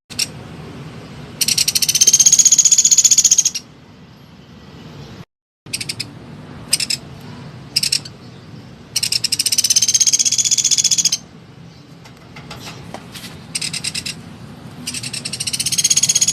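Small woodpecker (pelatuk) calling: three loud, very fast rattling trills of about two seconds each, with a few short sharp call notes between them.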